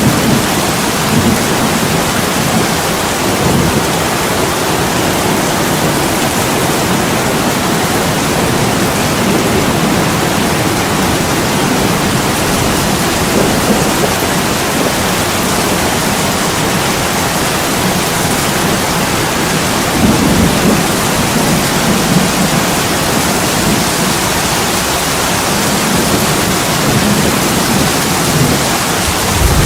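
Heavy rain pouring onto window glass, a steady dense hiss, with low rumbles swelling briefly near the start and again about two-thirds of the way through.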